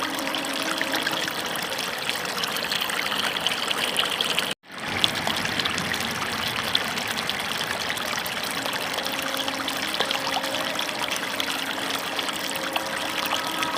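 Water running and splashing steadily, as from a tap or spray washing a toy. It cuts out abruptly for a moment about four and a half seconds in.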